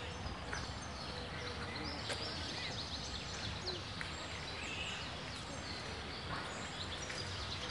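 Outdoor park ambience: many small birds chirping in the trees, short quick calls scattered throughout, over a steady low background noise.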